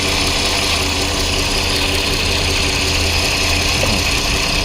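A steady mechanical hum: an even low drone with a hiss above it, like a running engine or machine, with no change in pitch or level.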